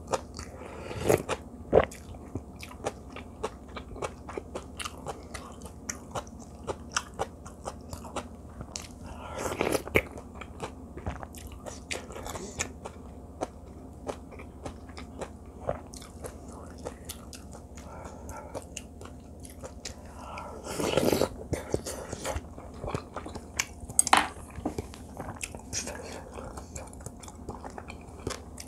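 Close-up eating sounds: chewing and mouth smacks over mouthfuls of rice, soybean-paste stew and seasoned greens, made up of many small clicks. There are a few louder spells of mouth noise about a second in, around ten seconds, and around twenty-one seconds.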